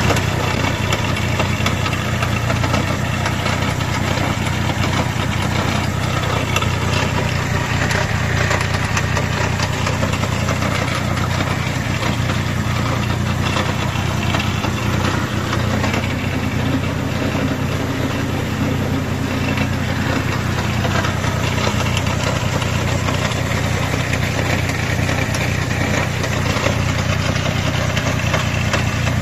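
Vehicle engine and driveline running steadily in fourth gear with a rear wheel jacked up and spinning free, a continuous hum with noise from the transmission line: the drivetrain fault being checked.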